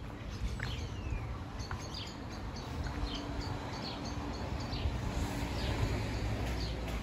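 Small birds chirping repeatedly, short high notes and quick downward-sliding calls, over a steady low rumble of street background.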